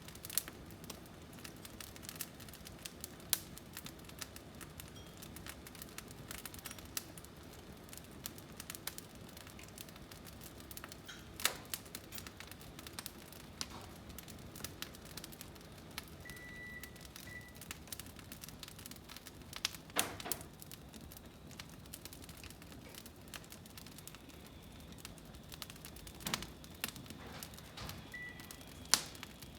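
Firewood burning in a fireplace, crackling steadily with scattered sharp pops; the loudest pops come a little over a third of the way in, about two-thirds in, and near the end.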